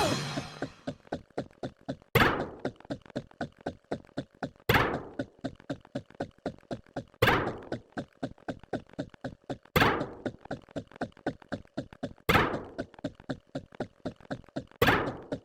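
Rapid, even clicks or taps, about five or six a second, with a much louder thunk-like hit about every two and a half seconds, six of them in all.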